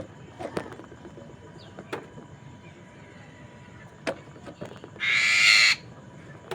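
Poksay mandarin laughingthrush giving a few short sharp chips, then one loud harsh rasping call of under a second near the end.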